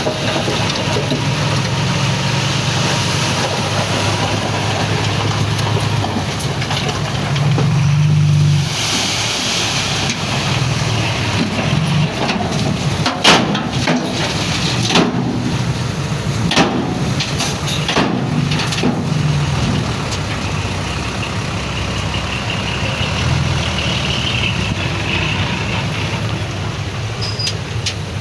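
Heavy diesel engine of working earthmoving machinery running steadily. It grows louder for a moment about eight seconds in, and several sharp knocks and clanks come in the middle.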